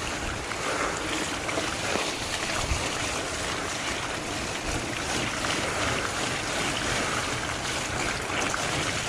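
Fat bike riding along a muddy dirt trail: a steady rush of wind on the microphone mixed with tyre rolling noise, with a couple of low thumps from bumps.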